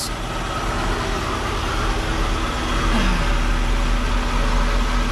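1991 Toyota Celica GT's 2.0-litre twin-cam 16-valve four-cylinder engine idling steadily.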